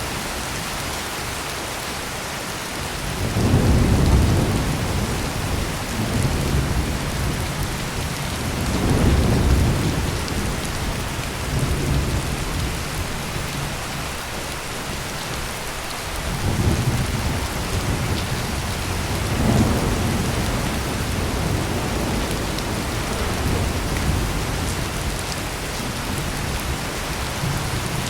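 Heavy steady rain with rolling thunder: several low, deep rumbles swell and fade over the rain, the strongest a few seconds in and again around nine seconds, with further rumbles past the halfway mark.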